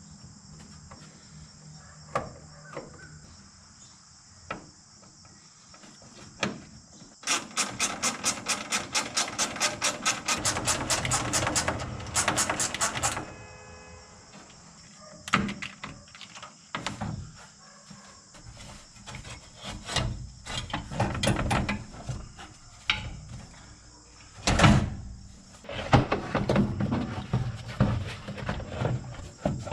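Hand tools and metal parts being worked while removing a truck's fan shroud: a run of fast, even clicks lasting about six seconds, then scattered clanks and knocks. Crickets chirr steadily behind.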